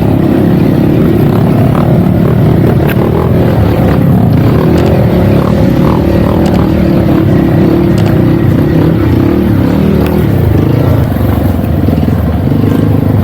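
Dirt bike engine running steadily under way on a trail, with a few sharp clicks and knocks over it. It eases off slightly about eleven seconds in.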